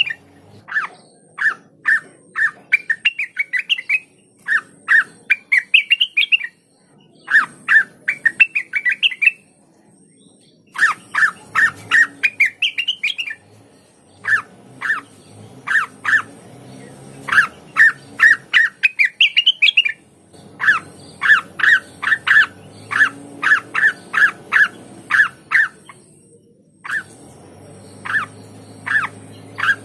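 Greater green leafbird (cucak wilis) singing: phrases of sharp, rapidly repeated notes separated by short pauses, many of them climbing in pitch toward the end of the phrase.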